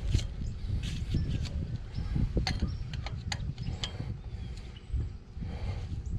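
Sharp metallic clicks and clinks of wheel-bearing parts being fitted onto a truck's front spindle, irregular and several a second, over a low steady rumble.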